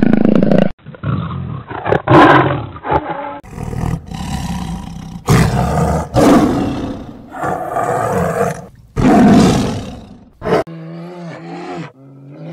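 Big cats roaring in a string of short clips cut one after another, each a loud, rough call. Near the end a steadier pitched call with clear overtones takes over.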